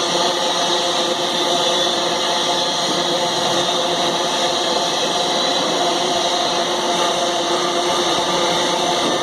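Freight train passing close by: a loud, steady rolling noise of wheels on rails under the train's engine sound, with a few faint steady tones.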